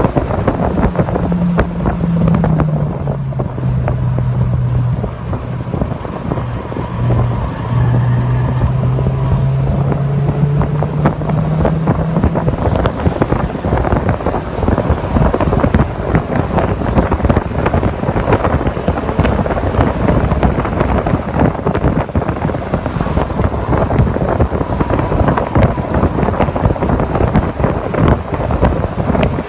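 Heavy wind buffeting on a car-mounted microphone at track speed, over a Mazda MX-5 Miata (NC) engine. The engine tone drops in pitch about two to three seconds in, then climbs slowly and is lost under the wind about twelve seconds in.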